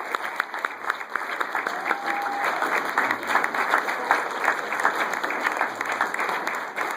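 Wedding guests applauding: dense, steady clapping from a crowd.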